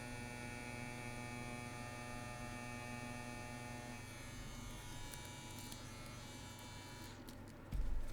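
CNC WE tattoo machine running with a steady hum; its tone thins about halfway through and it stops about a second before the end, followed by a short low thump.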